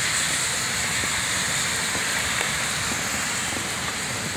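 Heavy rain pouring onto wet pavement, a steady hiss.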